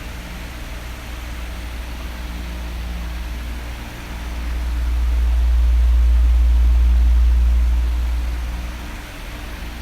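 Oscillating electric fan running with a steady whoosh. A low rumble swells from about four seconds in and fades back near nine seconds, as the fan's airflow sweeps across the microphone.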